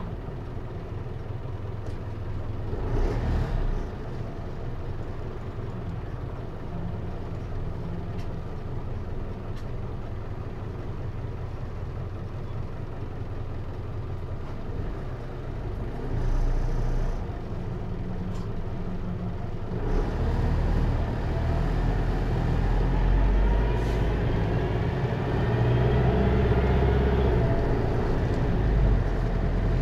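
Hino Liesse microbus's J05C diesel engine heard from inside the cabin, running low and steady, with a brief burst of noise about three seconds in. About two-thirds of the way through the engine takes up load, and a rising whine climbs as the bus accelerates on its automatic transmission.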